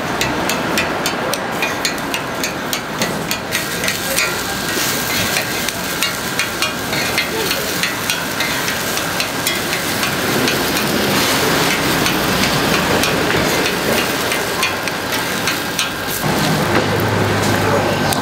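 Korean jeon (vegetable pancakes) frying in oil on a griddle: a steady sizzle dense with small crackles and spits.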